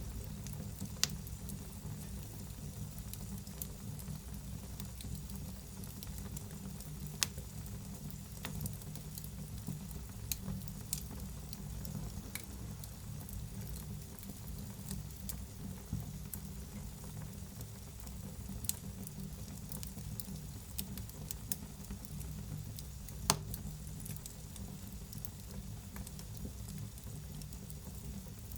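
Wood fire burning in a fireplace: a steady low rush of flames with a scattering of sharp crackles and pops, a few louder snaps about a second in, about seven seconds in and near twenty-three seconds in.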